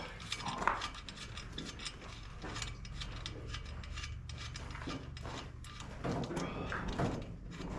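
Hand ratchet wrench clicking in short, irregular runs of strokes, tightening a fastener such as a clamp on the tractor during reassembly, over a steady low hum.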